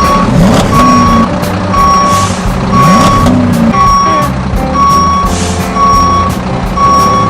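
Truck reversing alarm beeping steadily about once a second over a low engine rumble.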